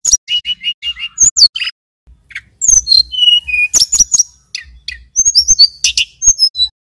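Male tledekan gunung (sulingan gunung) singing a rapid, varied run of sharp, high chirps and whistles, including a quick series of five repeated notes. There is a short break about two seconds in, then the song resumes.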